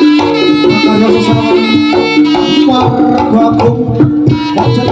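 Jaranan gamelan ensemble playing: kendang hand drums beating a busy rhythm under a reedy, nasal melody line and a held low metallic tone.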